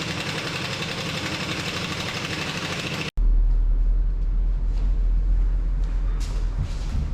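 Diesel truck engine running. About three seconds in there is a hard cut to a deeper, steadier low rumble.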